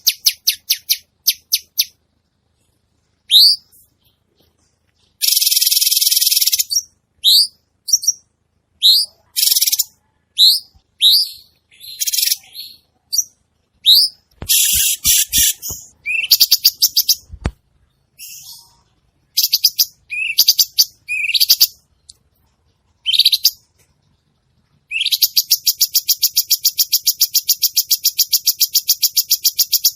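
A cucak cungkok songbird singing vigorously in a varied song. It mixes rapid chattering trills with short rising whistled notes, and ends in a long fast trill over the last five seconds. A few faint low knocks sound about halfway through.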